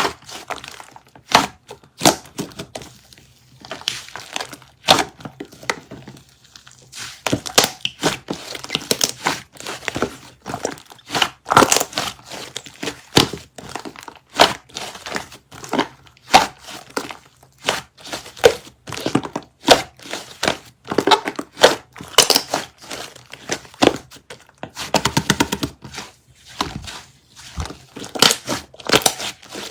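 White sticky slime squished and pulled by hand, giving a dense run of irregular crackling pops and clicks.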